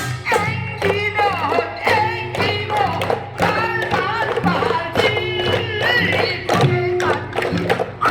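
Korean folk song performed live: a voice sings wavering, ornamented phrases over regular percussion beats.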